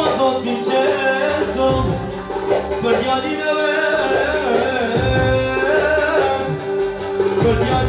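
Albanian folk music: an ornamented, wavering melody over a steady drone-like held note, with a regular percussion beat.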